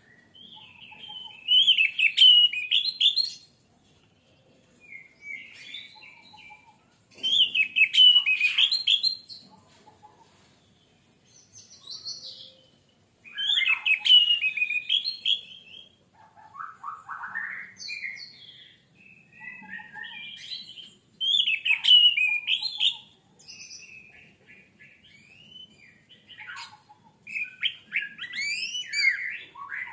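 Orange-headed thrush singing: loud, varied phrases of quick whistles and warbles about every six seconds, with softer, shorter phrases in between.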